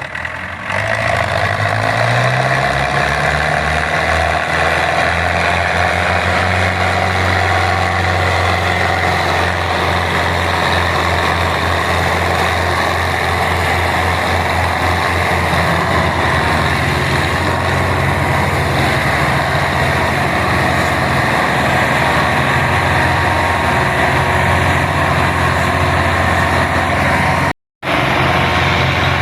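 Belarus 510 tractor's diesel engine revving up about a second in, then running steadily at high revs. The sound cuts out for a moment near the end.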